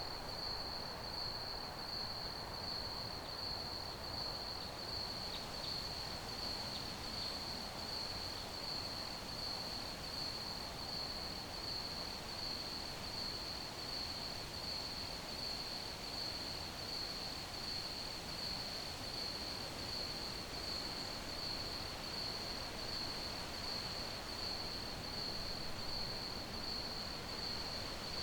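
Crickets chirping in a steady, fast pulsing trill, high-pitched, over a soft even background hiss, with a few brief higher chirps from another insect about five to seven seconds in.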